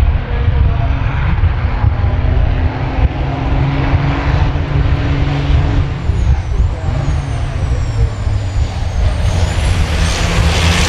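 Racing trucks' turbodiesel engines running hard on the circuit: a loud, deep, steady rumble, with several high falling whistles about six to nine seconds in.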